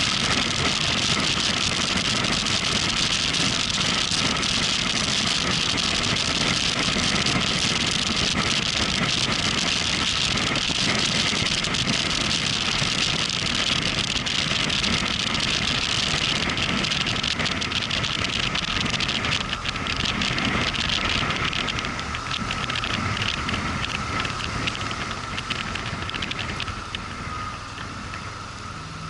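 Motorcycle under way: a steady rush of wind and road noise with the engine running underneath. It grows quieter over the last several seconds.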